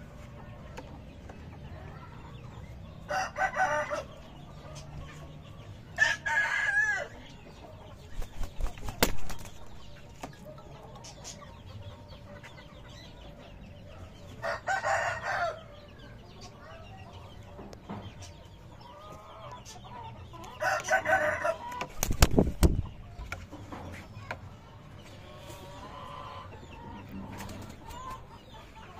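Aseel chickens calling: several short crows and loud clucks about a second long, spaced a few seconds apart, with quieter clucking between them. A brief low thud comes about three-quarters of the way through.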